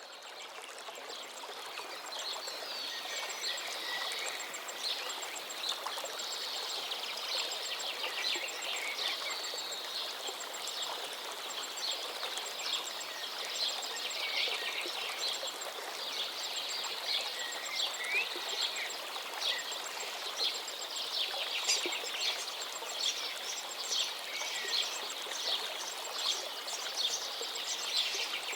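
Many songbirds singing in a dense chorus of quick chirps and trills over the steady rush of a flowing forest stream, fading in over the first few seconds.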